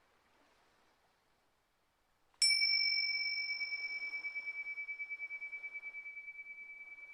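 A small metal singing bowl struck once about two and a half seconds in, then ringing on in one high tone with a slow wavering pulse as it slowly fades.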